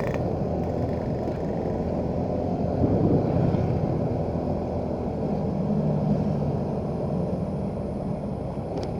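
Motorcycle engine running while riding along a road, a steady low hum that swells slightly about three and six seconds in.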